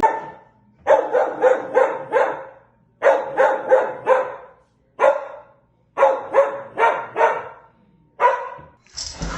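A dog barking in quick runs of three to five barks with short pauses between runs, about fifteen barks in all.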